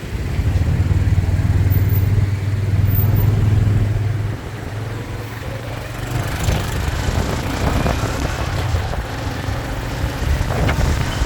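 Motorbike engine running under a rider, with road noise: a strong low hum for about the first four seconds, then quieter and rougher.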